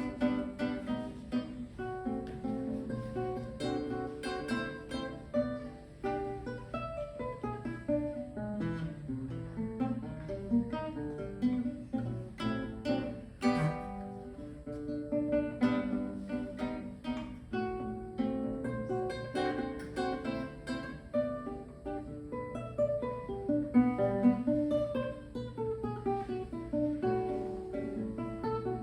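Solo acoustic guitar music, a continuous run of plucked notes with some strummed chords.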